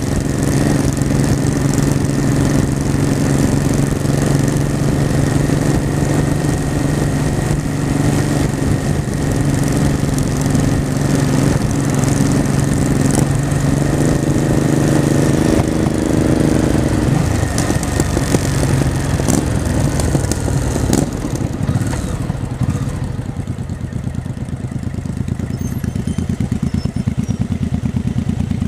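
Honda Shadow V-twin motorcycle engine running on the road, a steady note for about fifteen seconds that briefly rises and then drops. A few seconds later it eases off and goes quieter before building again near the end.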